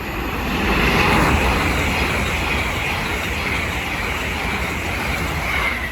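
LNER Class 800 Azuma train passing through at speed: a loud rush of wheel and air noise that swells over the first second and then holds steady, with a high tone that dips slightly near the end.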